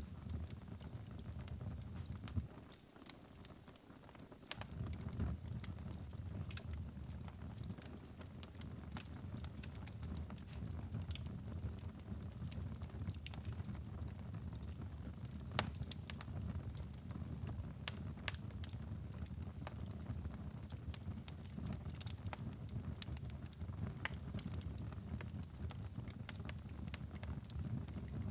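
Wood fire burning in a fireplace: a steady low rumble of the flames with frequent sharp crackles and pops from the burning logs. The rumble briefly drops away about three seconds in.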